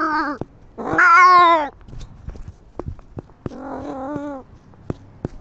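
Domestic cat yowling: drawn-out calls, the loudest about a second in with a wavering pitch, and a weaker one near the middle, with scattered short clicks between.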